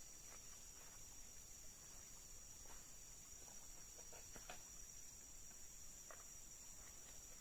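Faint forest ambience: a steady, high-pitched insect chorus, with a few brief, faint animal calls scattered through it.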